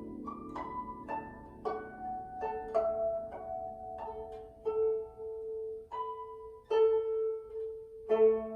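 Chinese plucked zither playing a slow solo melody: single notes plucked one after another, each left to ring on, the notes coming more sparsely as it goes, with a lower note joining near the end.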